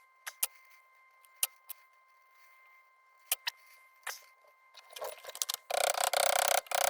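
Wire and jewelry pliers clicking and ticking a handful of times as the wire is bent into a smaller pull ring. Near the end comes about a second and a half of dense scraping and rubbing as the ring is worked.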